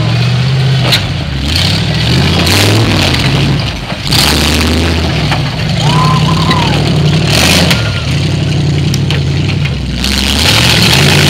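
A Jeep's engine being revved up and down, its pitch rising and falling repeatedly as it crawls over rocks, with scattered knocks and scrapes.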